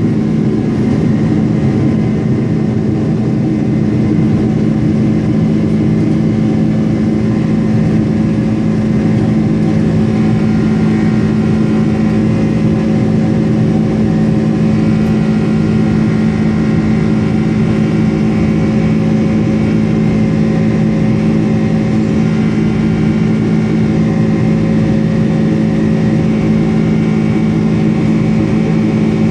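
Boeing 747-400's jet engines running steadily at high power, heard inside the passenger cabin as a loud, even drone with a low hum and several steady whining tones above it.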